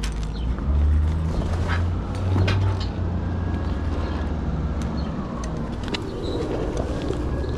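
Vehicle engine idling, a steady low rumble, with a few light clicks and rustles of bungee cords being handled.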